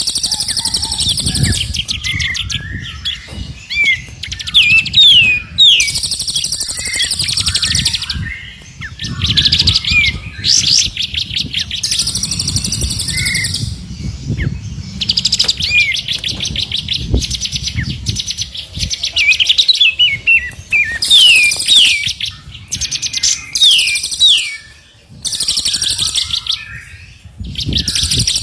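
Three songbirds sing together in a masteran training recording for caged birds. Runs of fast, high chattering trills alternate with short falling whistled notes, over a low rumble.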